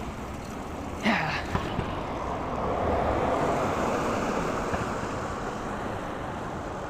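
Steady wind and road noise of a bicycle ride, swelling in the middle and easing off again as a car goes by. A brief short sound about a second in.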